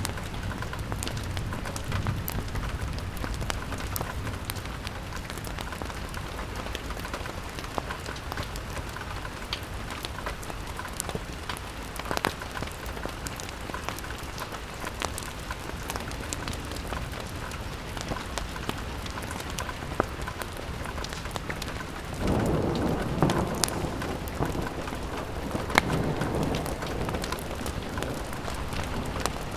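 Steady rain pattering on window glass, with scattered sharp ticks of drops. About two-thirds of the way through, a louder low swell comes in and lasts about five seconds.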